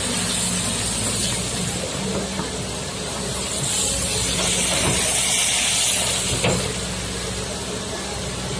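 Kobelco SK200-8 excavator's diesel engine running steadily as the machine works, with a hiss that swells in the middle and a knock about six and a half seconds in.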